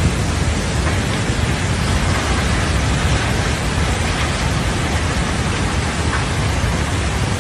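Steady, loud rushing of water, an even noise with a deep rumble underneath that does not change.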